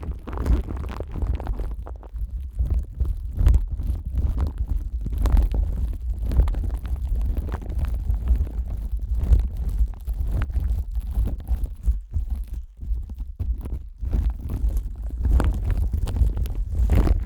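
Plastic wrap covering the ears of a Neumann KU100 dummy-head microphone, crinkling and rustling as rubber-gloved hands rub it, with a constant deep muffled rumble from the handling pressing on the microphone.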